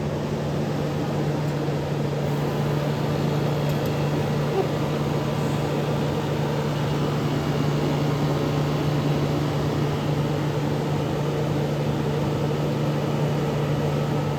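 1984 Carrier Sierra 17,900 BTU window air conditioner running, its fan blowing with a steady low hum under the rush of air.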